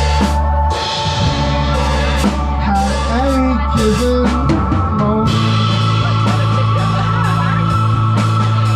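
Live rock band playing an instrumental passage without vocals: drum kit with regular cymbal and drum hits over held bass notes, and a guitar melody that wanders for the first five seconds before settling into a sustained chord.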